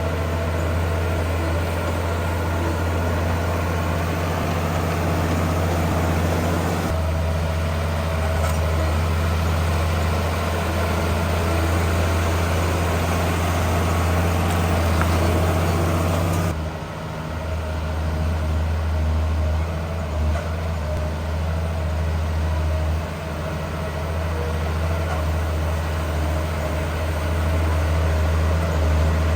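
Heavy diesel engines of earthmoving machinery running steadily with a deep low hum. The sound shifts abruptly twice, about 7 and 16 seconds in.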